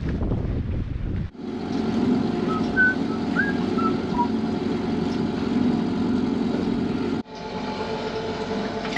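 Wind buffeting the microphone for about a second, then, after a cut, a sailboat's inboard diesel engine running steadily under way. A few short high chirps come through in the middle.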